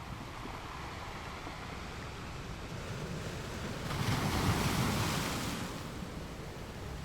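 Ocean surf washing steadily, with one wave swelling louder about four seconds in and easing back over the next two seconds.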